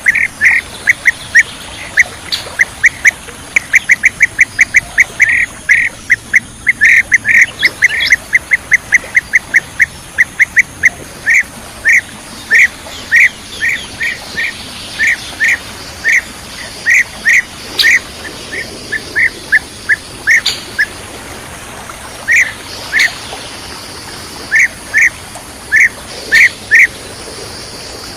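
Blue-tailed bee-eaters (kirik-kirik laut) calling with short, sharp, repeated notes. The notes come in a quick run of about four or five a second at first, then at uneven gaps.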